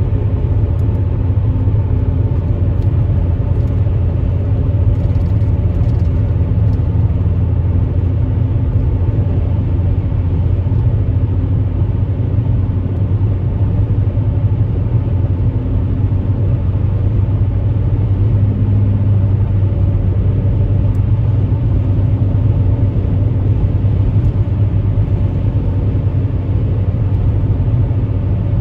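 Subaru Outback 3.6R's flat-six engine running steadily through a Nameless 5-inch axle-back exhaust, a constant low drone without revving.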